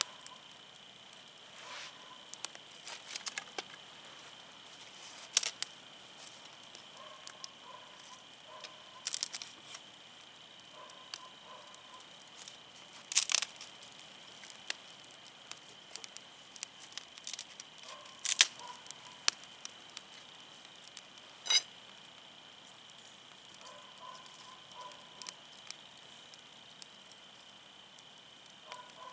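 Wood fire burning, crackling with irregular sharp pops, a few of them loud, over a steady high-pitched background hum.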